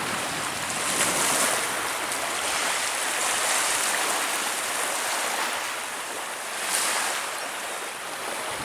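Baltic Sea surf: small waves washing in with a steady rush that swells and eases.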